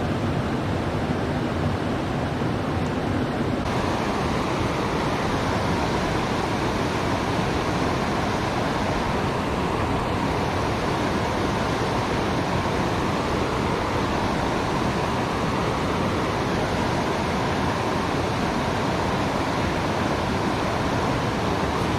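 Steady rushing of a waterfall on a rain-swollen river, a constant white-noise wash with no breaks. The tone shifts slightly brighter about four seconds in.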